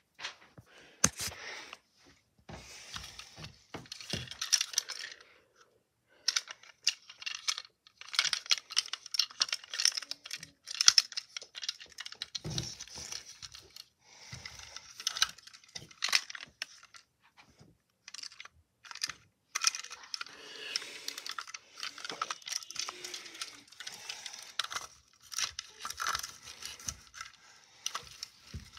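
Small hard toys clattering and rattling as they are handled and sorted, with many sharp clicks and short pauses between bouts of rummaging.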